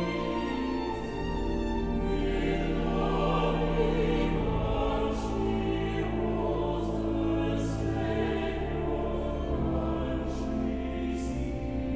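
Slow choral music: a choir singing long held notes with instrumental accompaniment over sustained bass notes.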